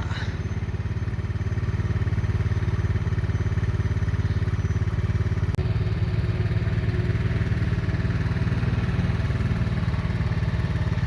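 Motorcycle engine running steadily, a low even drone with a fast, fine pulse.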